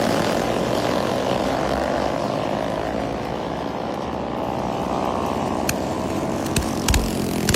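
A minibike's small engine running hard, its pitch and loudness sagging until about four seconds in and then climbing again. A few sharp clicks come near the end.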